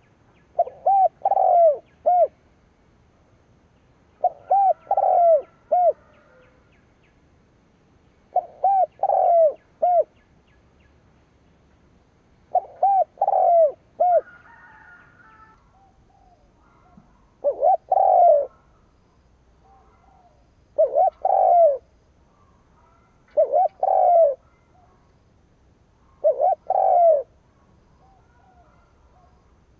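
Decoy spotted dove cooing: eight short phrases of two to four arching coo notes, one every three to four seconds, the later phrases shorter.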